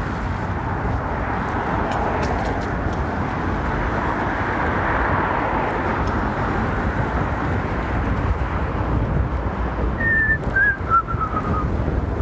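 Wind buffeting the microphone and rolling noise while riding a bicycle, a steady rushing with a low rumble. Near the end comes a short series of whistled notes stepping down in pitch.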